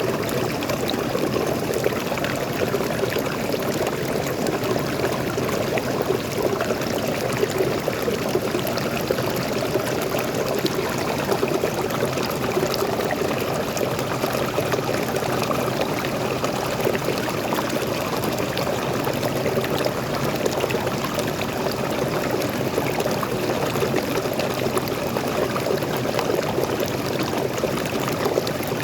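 Forest waterfall pouring steadily: a constant, even rush of falling and splashing water.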